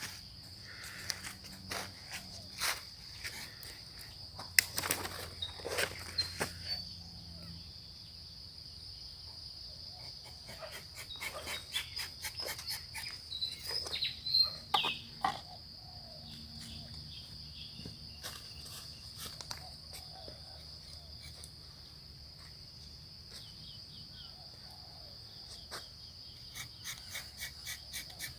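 Dawn ambience in a rubber plantation: crickets or other insects keep up a steady high trill, with short bird chirps around the middle and scattered light clicks and knocks.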